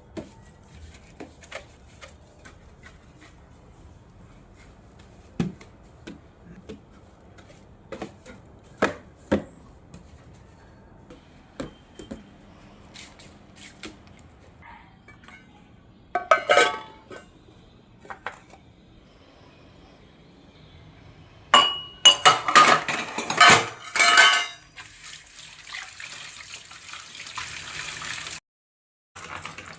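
Dishes and utensils knocking and clattering, with scattered light clinks at first and two spells of loud clatter in the second half. Near the end, water runs steadily for a few seconds, then stops abruptly.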